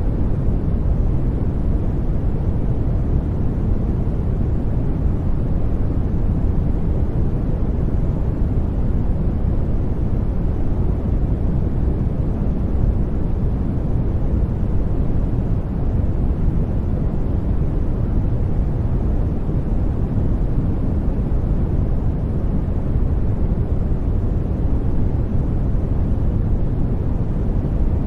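Steady generated noise for sleep, sold as white noise, with a deep, rumbling tone: strongest in the bass and thinning out toward the treble. It holds constant, with no changes, tones or clicks.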